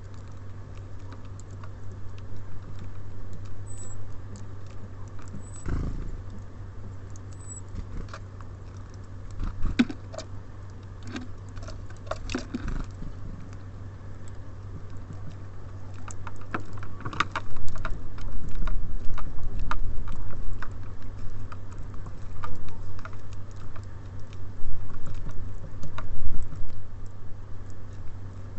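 Small birds at a feeder, with irregular pecking, tapping and scrabbling on the feeder and seed that grows busier in the second half. A few brief high calls come in the first several seconds, over a steady low hum.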